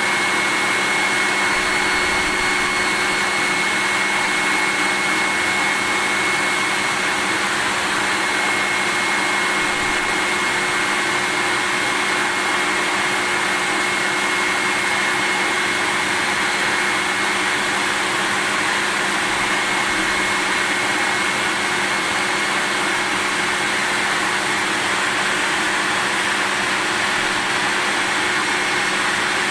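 Vacuum cleaner running steadily, an even rushing noise with a steady high whine held on one pitch and no change in speed.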